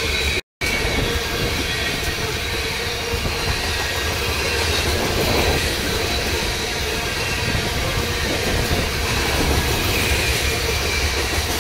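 Loaded coal hopper cars of a freight train rolling past, with a steady rumble of wheels on the rails and a continuous high squeal from the wheels. The sound drops out briefly about half a second in.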